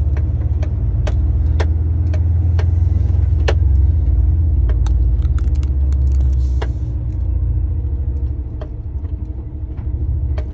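Lorry's diesel engine running with a steady low rumble, heard from inside the cab, with scattered irregular clicks and rattles; the engine eases off a little past halfway.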